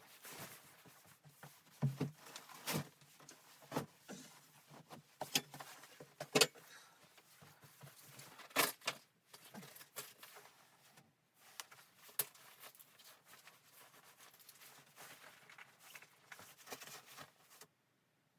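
Irregular clicks, taps and light knocks, some with a dull low thud, over a faint steady hiss.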